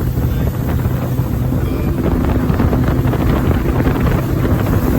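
Sea-Doo GTX 230 jet ski running under throttle, with its engine and wind buffeting the microphone.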